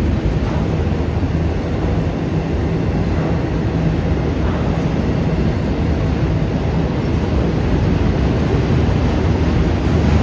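Freight train of autorack cars rolling past: a steady, loud noise of wheels on rail.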